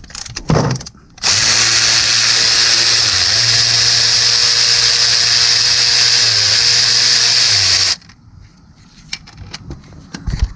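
Cordless power tool running continuously for about seven seconds as it backs out a 13 mm timing-cover bolt, its motor pitch dipping slightly a few times as the load changes. A few short clicks before it starts and after it stops.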